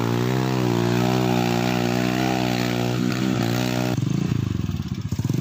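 Small motorcycle engine running, its pitch wavering gently with the throttle. About four seconds in it changes abruptly to a lower, rapidly pulsing engine note.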